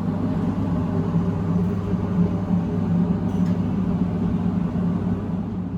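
Abukuma Express 8100 series electric train running, heard from inside the passenger car: a steady rumble with a constant low hum.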